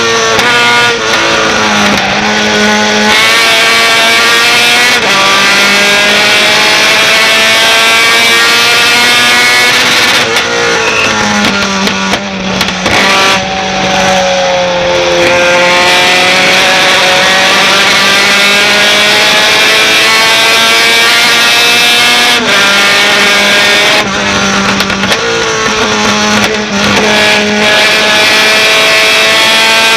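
Racing pickup truck engine at full throttle, its revs climbing in each gear and dropping sharply at each upshift, several times over. About halfway through the revs fall away as it slows, then climb again through the gears.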